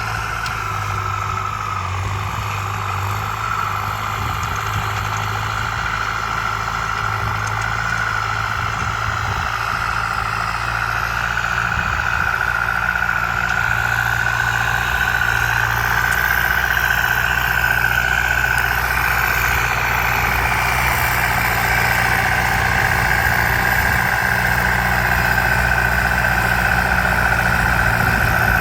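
Tractor engine running steadily, with a high whine held throughout, growing a little louder toward the end.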